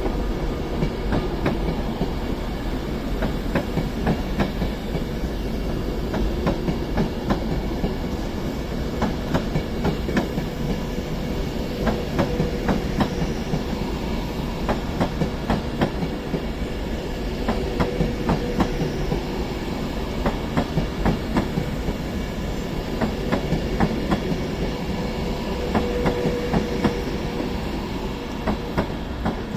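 Two electric trains, a Class 350 Desiro and a Class 390 Pendolino, pulling out together. Their wheels click over rail joints and pointwork on top of a steady rolling rumble.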